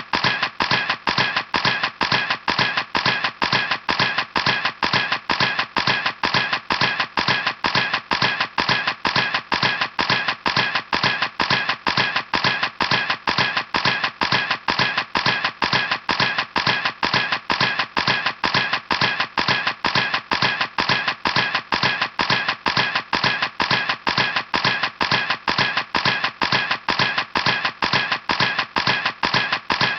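Camera shutter clicking over and over at an even pace, about three clicks a second, each click alike.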